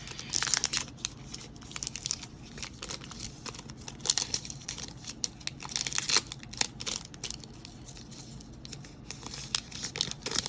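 Plastic foil wrapper of a trading card pack crinkling and tearing as it is opened, a run of irregular sharp crackles.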